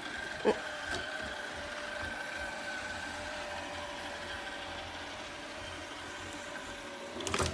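A machine running steadily, a hum with a constant whine, with a light knock about half a second in.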